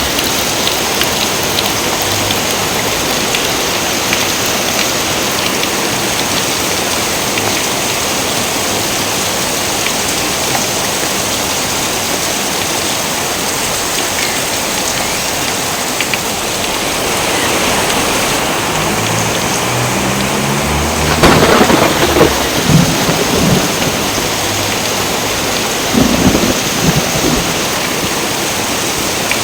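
Steady heavy rain with thunder: a sudden loud thunderclap about two-thirds of the way through rolls into rumbling, and a second burst of thunder follows a few seconds later.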